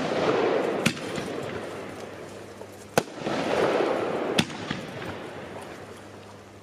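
Weco Casino Royal 25 mm firework battery firing: three sharp bangs, about one, three and four and a half seconds in, with a noisy rush after the first and second that fades away near the end.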